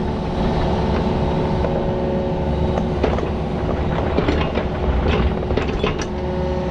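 Diesel engine of heavy earthmoving equipment running steadily, with scattered metallic clanks and knocks.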